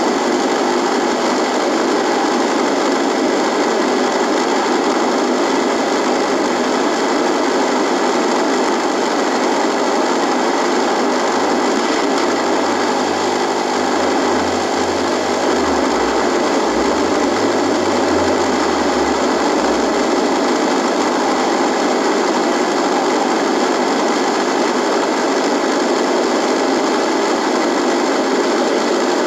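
Radio buzzing with static: a steady hiss and electrical buzz at an even level. A low wavering hum comes and goes in the middle.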